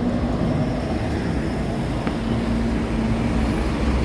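Scania K230UB bus's five-cylinder diesel engine running, a steady low drone with a constant hum.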